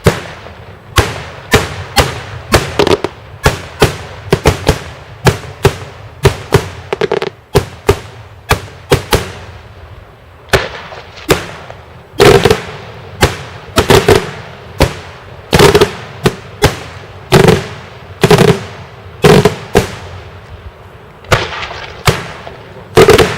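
Daytime fireworks: a rapid series of loud, sharp bangs, about two a second, each with a short echoing tail. The bangs come heavier and louder from about halfway through.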